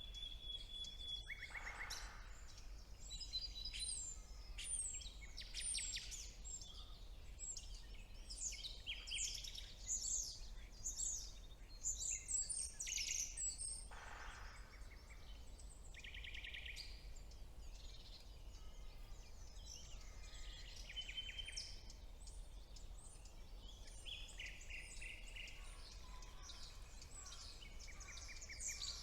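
Several songbirds singing at once in a spring woodland chorus: many overlapping high chirps, whistles and fast trills of repeated notes, with a faint steady low hum underneath.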